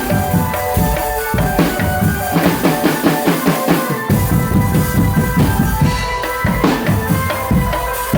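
Marching drum band playing: bass and snare drums beat a steady, busy rhythm under a melody of held notes. The deep bass drums come back in strongly about four seconds in.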